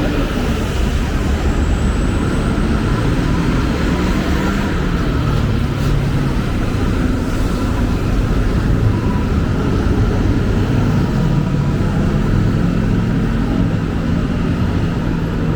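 Steady city street traffic: the engines of passing road vehicles run together as a continuous low hum with an even level of noise.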